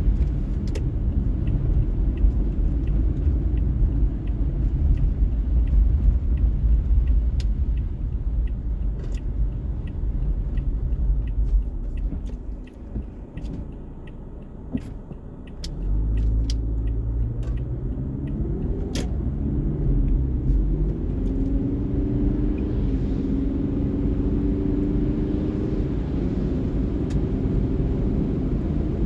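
Car driving: a steady low rumble of road and engine noise with scattered sharp ticks. About halfway through it quietens for a few seconds, then the engine note comes back and climbs in pitch as the car picks up speed.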